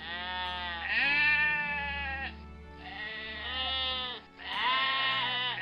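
Goat bleating: about four long, wavering bleats one after another, with short gaps between them, over soft background music.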